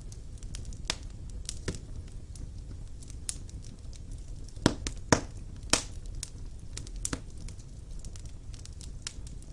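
Fire burning in a fireplace: a steady low rumble of flames with scattered sharp crackles, and three louder pops close together about halfway through.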